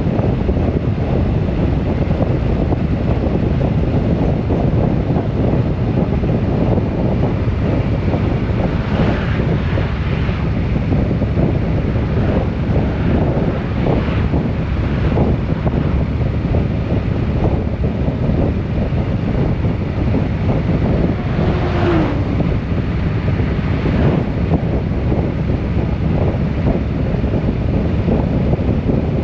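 Steady wind rush buffeting the microphone at riding speed, over the drone of a vehicle's engine and road noise.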